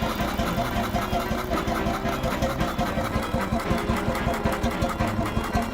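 100-horsepower hot bulb engine running with a steady, even rhythmic beat.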